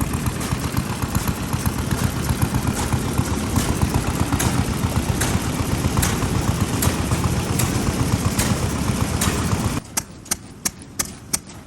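Old stationary engine running, its exhaust firing in sharp, evenly spaced bangs over a heavy low rumble. About ten seconds in the rumble stops abruptly, and sharp exhaust pops go on at roughly three a second.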